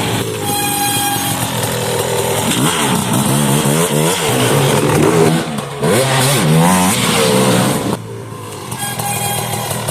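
KTM 300 SX 300cc single-cylinder two-stroke dirt bike engine being ridden hard, its pitch climbing and dropping over and over as the throttle is opened and shut. It backs off briefly about eight seconds in. A short steady whine sounds about half a second in and again near the end.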